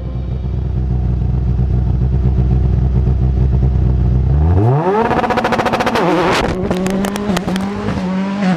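Rallycross car engine idling steadily, then revved up sharply about four and a half seconds in and held at high revs with a rapid crackle of pops and bangs.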